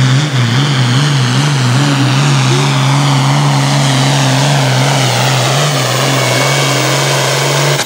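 Ford hot farm pulling tractor's diesel engine running flat out under load as it drags the sled, its note wavering up and down as the tyres slip. The engine note cuts off suddenly near the end.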